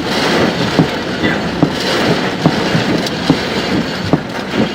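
Steady rushing storm noise heard from inside a car, with a sharp tick repeating about every 0.8 seconds.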